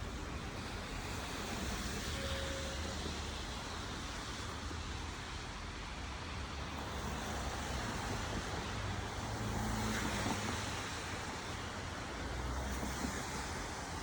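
City street traffic: cars passing over a steady hiss, with low engine and tyre rumbles swelling and fading a few times.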